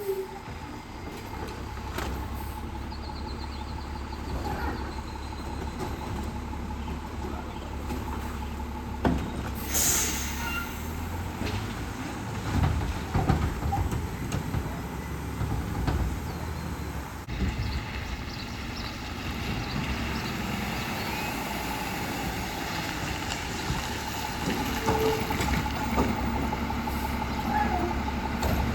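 Autocar WX64 garbage truck with a Heil Rapid Rail side-loader body running steadily. An air brake hisses briefly about ten seconds in, and a few knocks and clunks follow a couple of seconds later.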